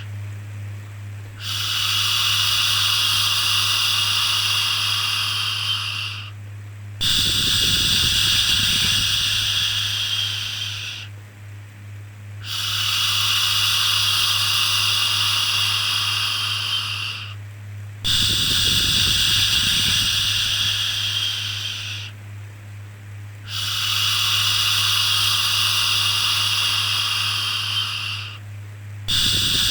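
Repeated 'shhh' shushing for soothing a baby: long hissing shushes of about four to five seconds each, one after another with short pauses between, about six in all, over a steady low hum.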